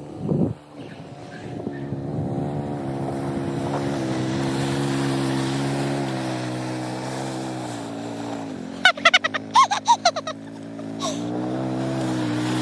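A motor running steadily with a low hum, its pitch dipping briefly about eight and a half seconds in. About nine seconds in comes a quick run of short, high chirps.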